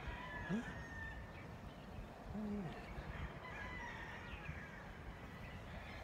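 Faint bird calls: a few thin, high calls, some falling slightly in pitch, over a quiet outdoor background.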